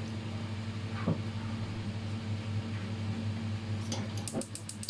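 A steady low machine hum, like a running appliance, with one sharp sound about a second in. Near the end comes a run of rapid high clicks, about eight a second.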